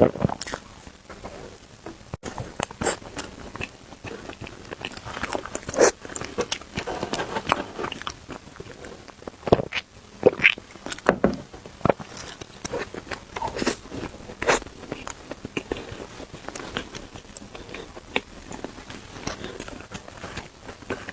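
A person biting and chewing crunchy food, with irregular crunches and crackles; the sharpest bites come about six, ten and fourteen seconds in.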